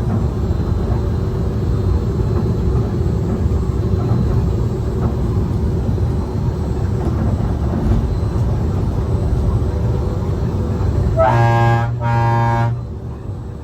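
Disneyland Mark VII monorail running, a steady rumbling drone as heard inside the driver's cab. Near the end its horn sounds two short blasts in quick succession.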